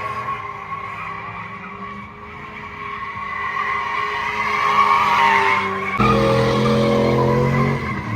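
Tires squealing in a burnout or donut, the squeal wavering and swelling, with the engine revving hard; about six seconds in a loud, steady high-rpm engine note cuts in.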